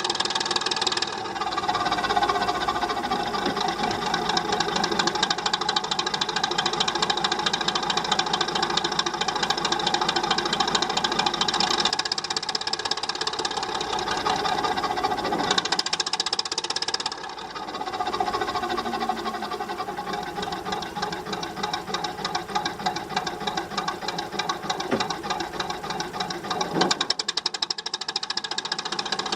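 Vintage Lister JP3 three-cylinder diesel engine running steadily, with a fast, even knocking beat.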